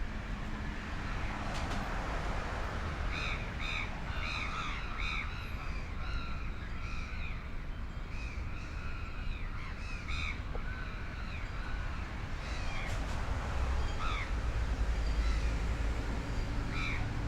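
Many birds calling over and over, short rising-and-falling calls overlapping one another, with a low rumble swelling about fourteen seconds in.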